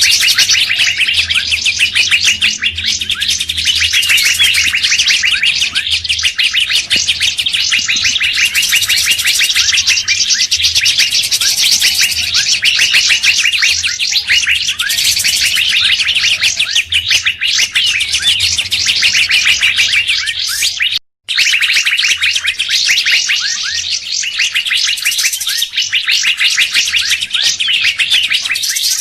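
Recorded songbird lure calls: a dense, continuous stream of rapid high chirps and trills, with a low hum underneath and a brief cutout about 21 seconds in.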